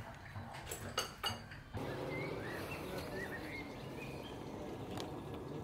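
Two light clicks about a second in, then a quiet outdoor ambience with faint bird chirps.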